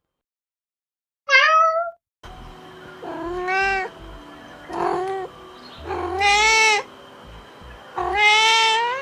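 A cat meowing repeatedly: about five separate meows, each rising and falling in pitch, over a faint steady hum.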